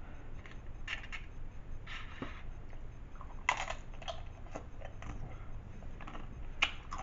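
Crisp chips being crunched and chewed close to the microphone, in scattered short crackly bursts, the loudest about three and a half seconds in and again near the end.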